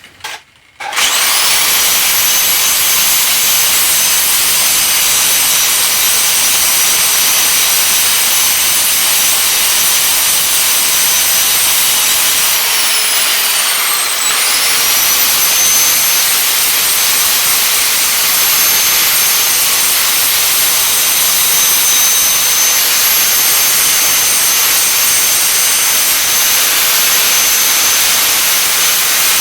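Stick (arc) welding with a 7018 electrode: a loud, steady arc hiss and crackle that starts about a second in, with a thin high whine over it. The arc falters briefly around the middle, then settles again.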